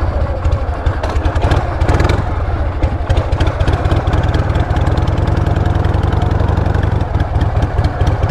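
Motorcycle engine running steadily, a fast, even low throb with no revving.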